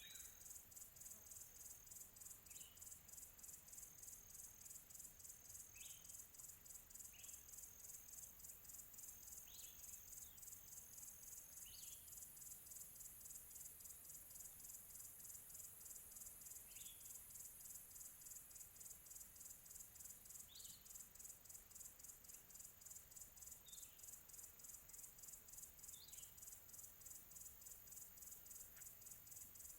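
Faint insect chorus, a steady high trill pulsing rapidly, like crickets. About ten short, falling bird chirps come every few seconds on top of it.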